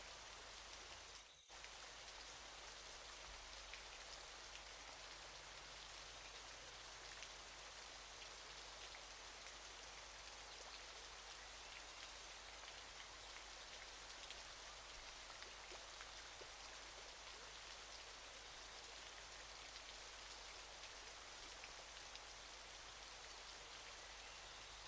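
Waterfall, a steady, even hiss of falling water, faint and unbroken apart from a brief dip about a second in.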